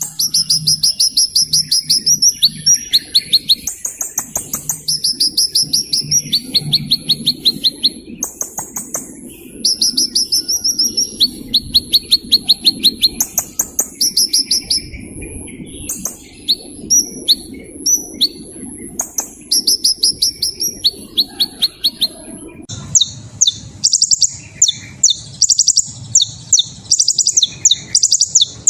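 Small bird singing rapid, high-pitched trills: fast runs of chirps repeated every second or two. About three-quarters of the way in, the pattern changes suddenly to a denser run of chirps.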